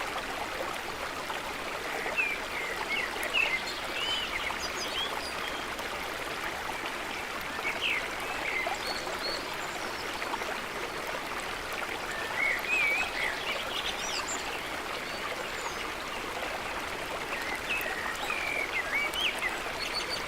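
Steady rush of running water, with small birds chirping and twittering now and then above it.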